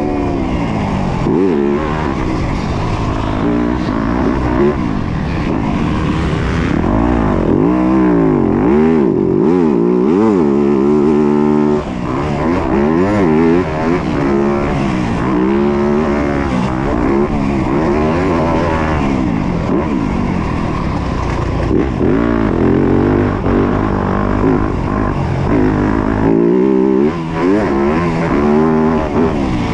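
Four-stroke single-cylinder engine of a Yamaha YZ250F motocross bike, ridden hard. Its pitch climbs and falls every second or two as the throttle opens and shuts between gear changes.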